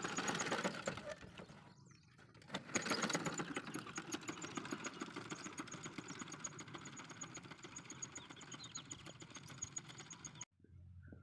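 Tractor engine running with a rapid, even chugging. It fades briefly about two seconds in, comes back, and cuts off abruptly near the end.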